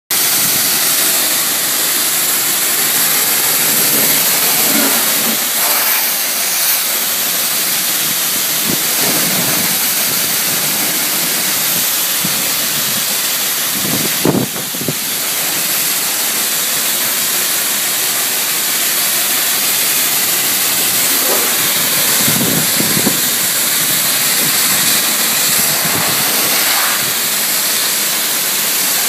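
High-pressure water spray at a car wash hissing steadily against the car, with a brief change in the spray about halfway through.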